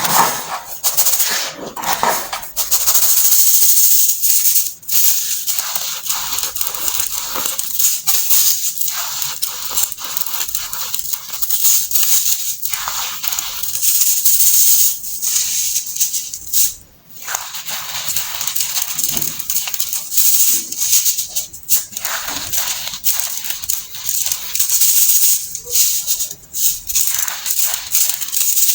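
Compacted baking soda being crushed and crumbled by hand: a dense, continuous run of crisp crunching and crackling, with one short break about two-thirds of the way through.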